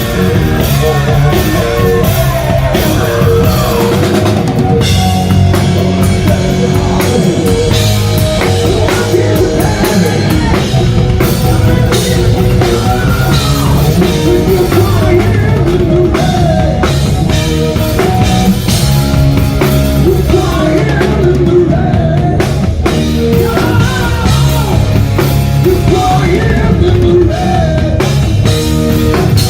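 Live hard rock band playing loud and steady, with a full drum kit, bass and an electric guitar whose melody bends up and down, possibly with vocals.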